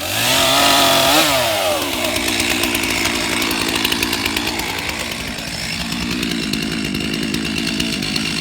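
Stihl two-stroke chainsaw running. It revs up and back down in the first second or so, then settles into a steady run.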